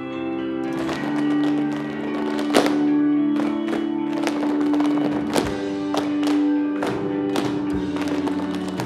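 Tap shoes striking a stage floor in sharp, irregular clicks and stamps over recorded music with long held notes; one heavier stamp about two and a half seconds in stands out.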